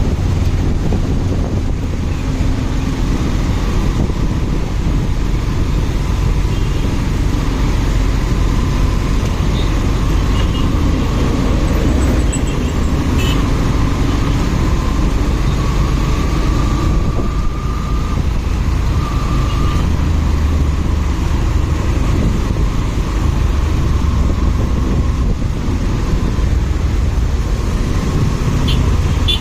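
Motorcycle on the move: a steady, loud rumble of engine and road noise, with a faint thin tone partway through.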